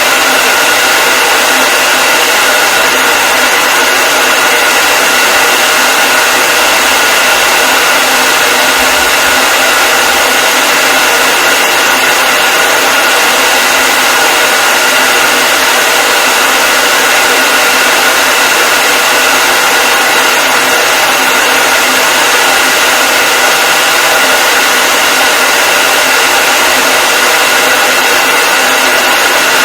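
Hair dryer running continuously: a loud, unchanging rush of air with a steady whine in it, used as white noise.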